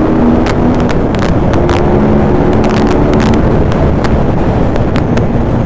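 Ducati Monster 821's L-twin engine running under way at fairly steady revs, loud, with wind rushing over the microphone and a few sharp clicks.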